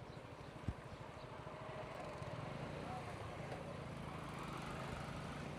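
Motorcycle engine running at low speed with a pulsing low rumble, and a single sharp low thump about a second in. Faint voices join from about two seconds in.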